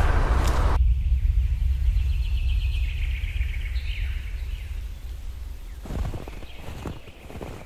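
Roadside traffic noise that cuts off suddenly just under a second in, leaving a low rumble that fades away. A small bird trills and chirps over it for a few seconds, and a few soft thumps come near the end.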